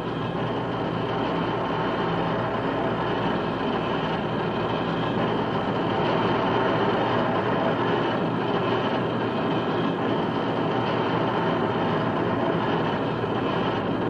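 Steady mechanical rumble and clatter, a continuous machine din with no break.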